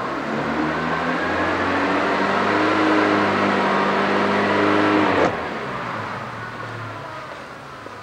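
Seat 1.6 petrol engine held at raised revs by the throttle, its pitch creeping slightly higher, then released about five seconds in, the revs falling back toward idle.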